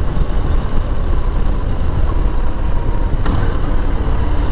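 Harley-Davidson Low Rider S V-twin engine running steadily at road speed, with a heavy low rumble and wind noise. A brief click about three seconds in.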